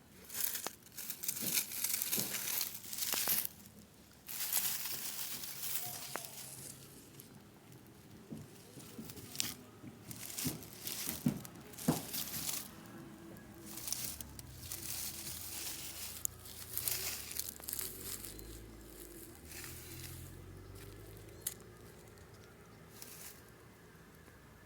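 Irregular rustling and crinkling noises in bursts of varying length, loudest in the first few seconds, with a few sharp clicks.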